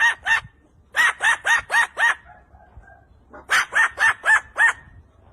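A bird calling in quick runs of short, repeated arched notes, about four a second: a brief run at the start, five notes about a second in, and six more about three and a half seconds in.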